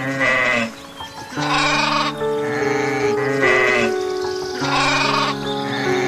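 Sheep bleating four times, about a second and a half apart, over background music with long held notes.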